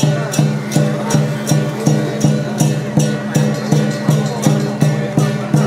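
Lion-dance troupe percussion: drum and cymbals struck in a steady beat, about three strokes a second, with a ringing metallic sound held between the strokes.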